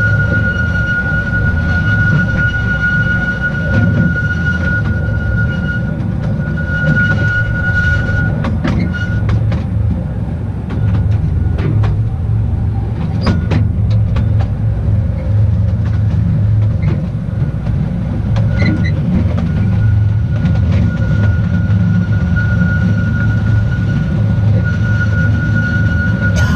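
The Petit train d'Artouste, a narrow-gauge electric mountain railway, rolling along with a steady low rumble from its wheels and cars. A steady high whine or squeal rides over the rumble for the first third, drops away in the middle where a few sharp clicks come through, and returns near the end.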